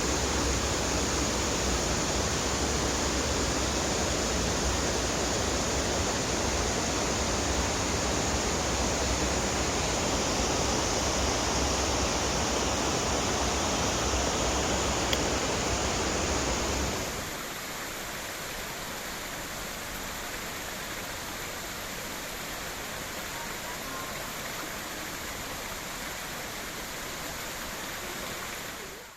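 Steady rush of river water flowing over rocks, with a deep rumble underneath. About two-thirds of the way through it changes abruptly to a quieter, thinner rush of water.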